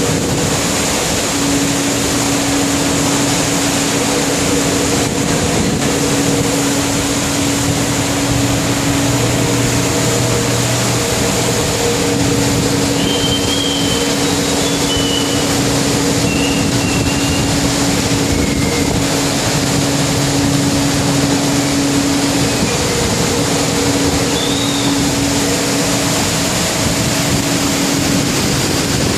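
Steady loud rush of storm wind and heavy sea, with a ship's engine and machinery humming underneath and a few short, high squeaks through the middle.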